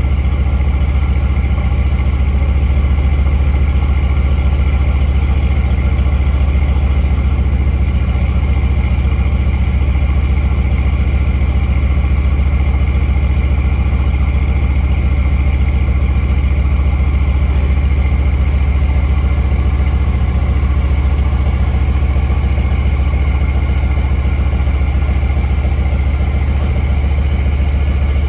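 Mercedes-AMG C63's 4.0-litre twin-turbo V8 idling steadily, with a deep, even exhaust note and no revving.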